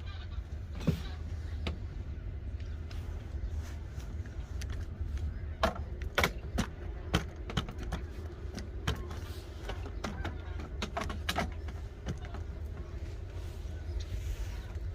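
Steady low rumble with scattered sharp clicks and knocks, coming in quick clusters about six seconds in and again around eleven seconds in.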